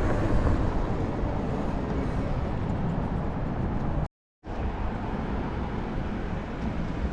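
Wind buffeting the microphone, with road and traffic noise, while riding along a road. The sound cuts out completely for a moment about four seconds in.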